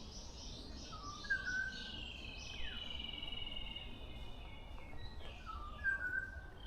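Several small birds singing in a dawn chorus. A high, thin trill lasts about two seconds in the middle, a short whistled phrase comes twice, and other chirps overlap them.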